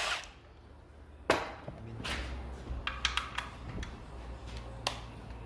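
Hand tools knocking and clinking on metal engine parts during bolt removal. There is one sharp knock about a second in, followed by scattered light metallic clicks and taps.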